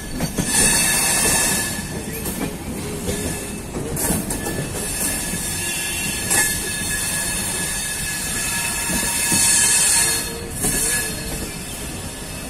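Indian Railways express passenger train running at speed, heard at the open side of a coach: wheels rumbling on the rails under heavy wind rush, with a thin steady squeal. The hiss swells loudest about half a second in and again around nine to ten seconds.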